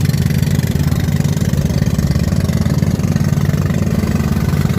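Pumpboat (bangka) engine running steadily underway, a loud, even low drone with a fast pulse.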